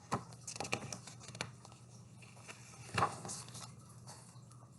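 Faint paper rustling and a few soft taps and clicks: the pages of a picture book being handled and turned.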